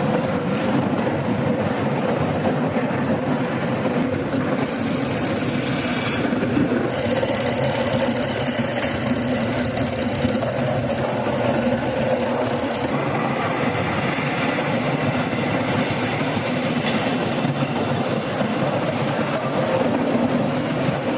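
Loud, steady industrial machinery noise with a constant hum, and a hiss that comes in over it for a few seconds about five seconds in and again from about seven to thirteen seconds.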